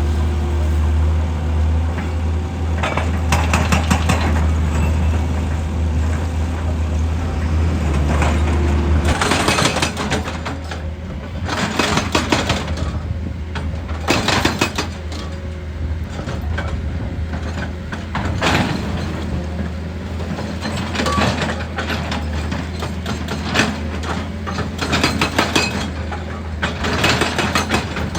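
Heavy rock-working machinery: a diesel engine running with a deep hum that drops away about nine seconds in, while rock clatters and crunches in irregular bursts, heavier and more frequent in the second half.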